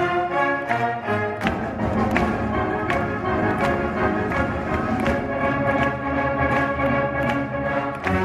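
Instrumental music played by an ensemble, orchestral in character, with sustained pitched chords and regular note attacks.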